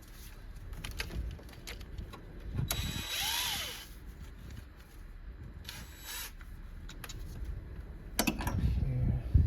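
Tools working on the engine's fuel rail bolts: scattered metal clicks and clinks, a brief burst of noise about three seconds in, and louder clanking knocks near the end.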